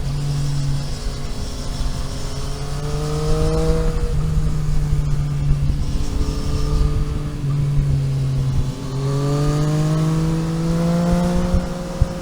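Vehicle engine heard onboard while driving, pulling up through the revs twice with a drop in pitch at a gear change between, over steady wind and road rumble.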